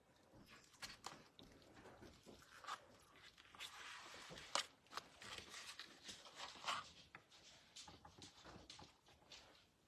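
Faint kitchen handling sounds while stuffed cabbage rolls are rolled: soft rustling with scattered light clicks, a brief denser rustle about four seconds in and two sharper ticks around the middle.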